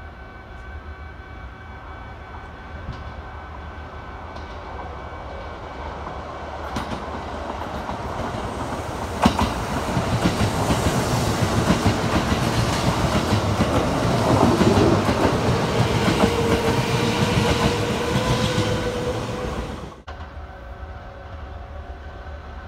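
Kintetsu limited express electric train passing close by, growing louder as it approaches, with the clatter of wheels over the rails and a steady motor whine while the cars go past. The sound cuts off abruptly about twenty seconds in, leaving quieter trackside background.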